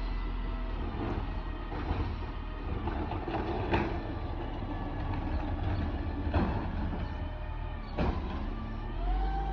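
Crane Carrier LET2 garbage truck running, with a steady engine and hydraulic drone. It is broken by three sharp metallic bangs, and a short rising whine comes near the end.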